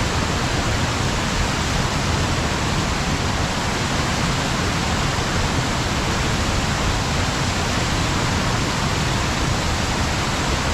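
Water pouring steadily over a small weir on a stream, an even rushing that does not change.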